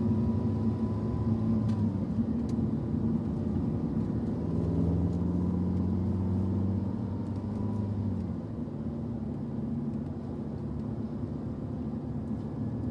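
Car engine and road noise heard from inside the cabin at a steady, moderate speed. The engine note rises gently about four seconds in, then falls away around eight seconds, and the overall sound gets a little quieter.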